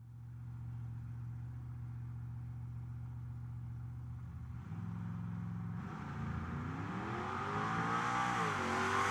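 Car engine idling steadily, then from about six seconds revving up and down in pitch and growing steadily louder as it accelerates.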